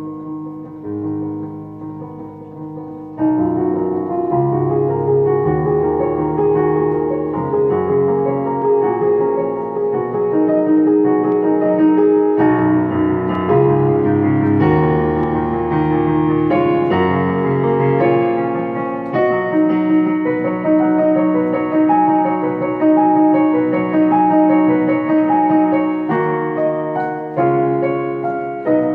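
Solo piano playing a slow, flowing piece of sustained chords under a melody, which grows louder about three seconds in.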